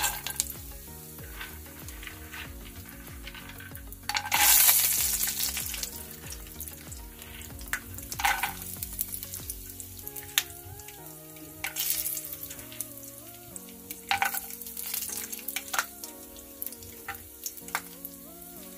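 Peanuts frying in hot oil in a nonstick pan, sizzling in bursts, the loudest about four seconds in. Soft background music with a simple melody runs underneath.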